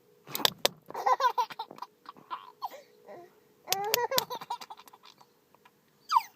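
A baby laughing in short bursts, set off by a person's odd vocal noises: a couple of sharp mouth pops about half a second in and sliding, swooping voice sounds around the middle and near the end.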